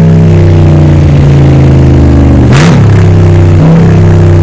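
Straight-piped truck engine running loud and steady with a low exhaust drone while driving; its pitch dips briefly and recovers twice, a little past halfway and about a second later.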